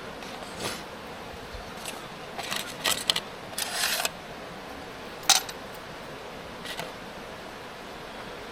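Small metal items being handled: a series of clinks and short clatters, the sharpest and loudest one a little past the middle, over a steady faint outdoor hiss.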